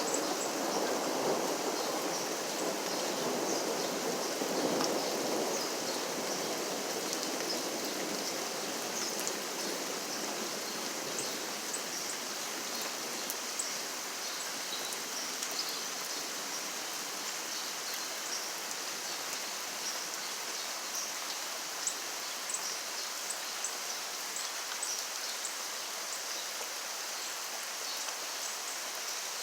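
Steady rainfall, with many small drop ticks over an even hiss, a little heavier in the first few seconds.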